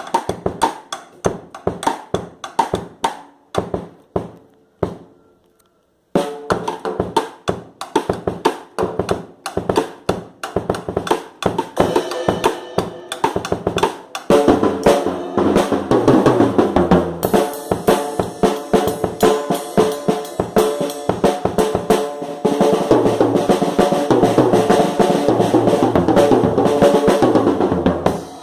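Acoustic drum kit being played, snare and bass drum hits to the fore. The playing stops for about a second near the start, then comes back and grows denser and busier, with rolls, toward the end.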